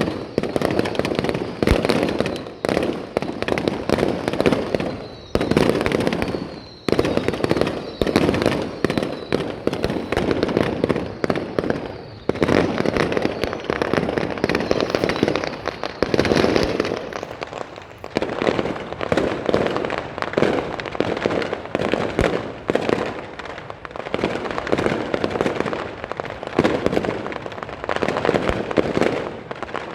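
Fireworks display: a rapid, unbroken barrage of aerial shell bursts and crackling bangs, overlapping one another.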